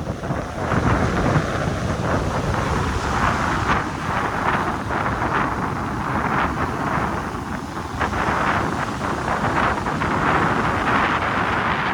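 Strong wind buffeting the microphone: loud, gusty wind noise that surges and eases every second or two.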